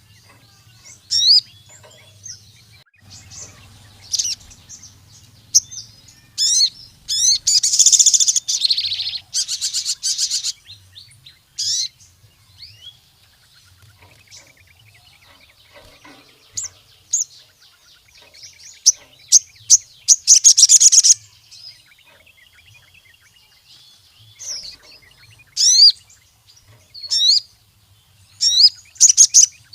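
A sogon (ruby-cheeked sunbird) singing vigorously: sharp, high chirping notes that sweep up and down, broken by several rapid trills of about a second each.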